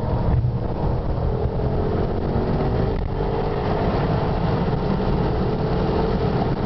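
Porsche Panamera Turbo's twin-turbo V8 running at a steady pitch over a constant low rumble of road noise, heard from inside the cabin.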